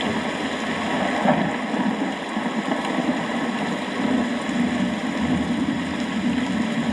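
Steady rainfall, with a low, wavering rumble underneath.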